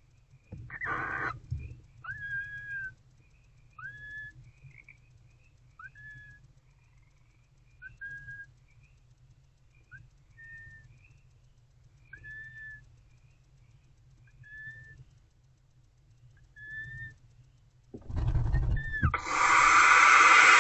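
Barn owlets giving short whistled calls about every two seconds, each rising sharply and then holding level. There is a brief rustle about a second in and a louder scuffling noise near the end.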